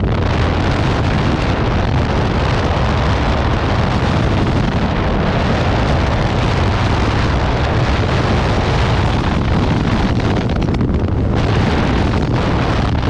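Wind rushing over a motorcycle helmet camera's microphone while riding, with the motorcycle's engine running underneath as a steady low rumble. The noise is loud and unchanging, then cuts off abruptly at the end.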